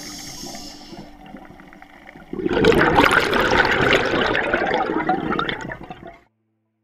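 A loud gurgling rush of water and bubbles starts about two seconds in and runs for about four seconds before cutting off suddenly.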